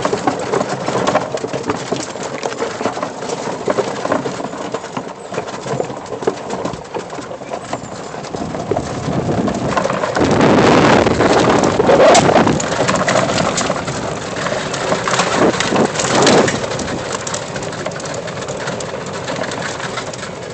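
Lifted 1997 E-Z-GO golf cart driving up a steep dirt trail: a continuous rumble of the cart and its tyres with many small clicks and knocks, growing loudest about halfway through.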